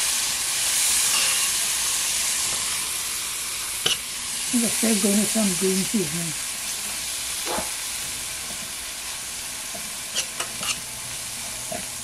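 Curry paste and onions sizzling gently in oil over low heat while a slotted metal spoon stirs them, with a few clicks of the spoon against the pot. A person's voice is heard briefly about four seconds in.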